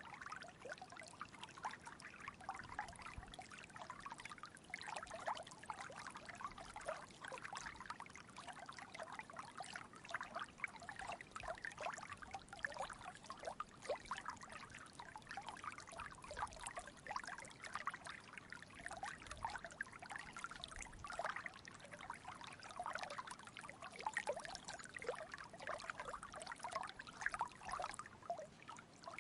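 Shallow stream trickling and babbling over rocks, a steady run of many small splashes and gurgles.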